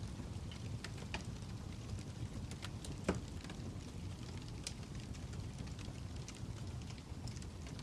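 Fire crackling: a steady low rumble with scattered sharp pops and snaps, the loudest about three seconds in.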